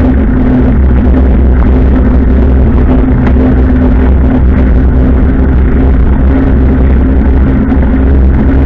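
Motorcycle engine running steadily at an even cruising speed, a loud, constant drone.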